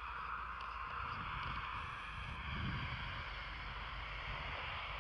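Steady outdoor wind noise: a low rumble on the microphone under a soft, even hiss.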